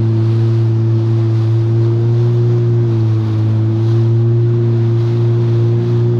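Yamaha WaveRunner personal watercraft engine running at a steady speed, a constant low drone with the rush of water and wind over it.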